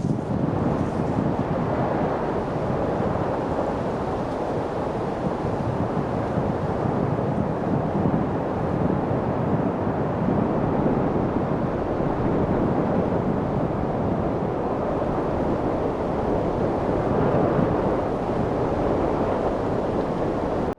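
Steady wind noise, an even rushing with gentle swells in strength and no distinct events.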